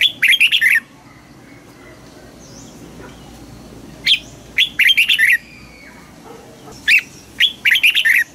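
Red-whiskered bulbul singing: three short phrases of quick, bright notes, one at the start, one about four seconds in and one about seven seconds in.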